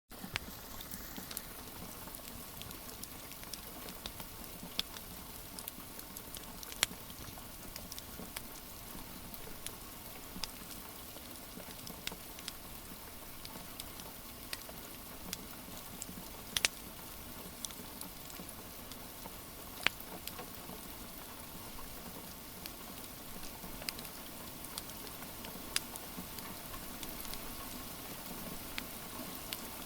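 Steady rain patter mixed with a wood fire crackling, with irregular sharp pops every second or two.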